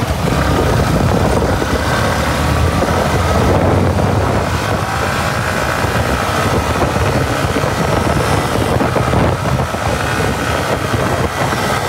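Yamaha R15's single-cylinder engine pulling hard as the bike accelerates through the gears on an open road, with wind noise rushing over the microphone.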